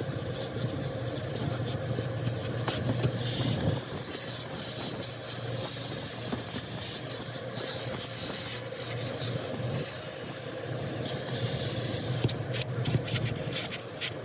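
A car running steadily, with a low hum and hissing noise, and scattered light ticks and scrapes that become more frequent near the end.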